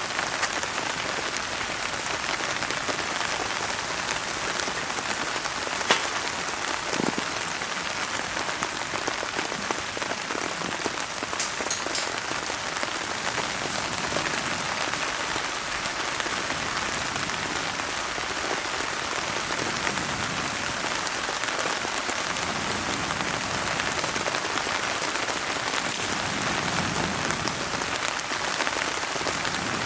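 Steady rain pattering, mixed with a campfire burning in a fire pit and giving an occasional sharp pop or crackle.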